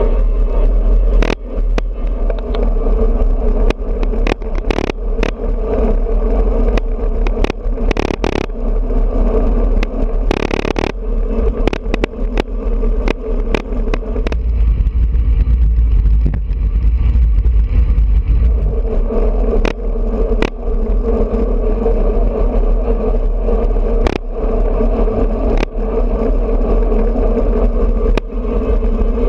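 Wind rushing over an action camera's microphone on a moving road bike, with a steady hum of tyres on the road and frequent sharp ticks and rattles from bumps. The wind rumble swells for a few seconds past the middle while the hum drops away, then the hum returns.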